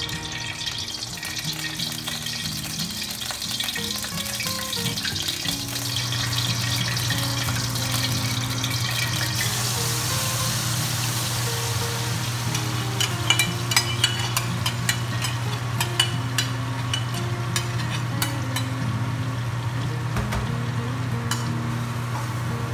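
Oil sizzling in a wok; about halfway through, coarsely pounded green chili, shallot and garlic paste goes in and fries with a steady sizzle. A metal spatula scrapes and knocks against the wok from then on.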